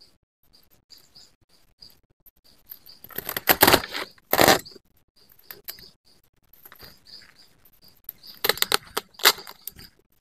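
Two bursts of crackling, clattering handling noise, one about three seconds in and one near the end, over short high chirps that repeat throughout.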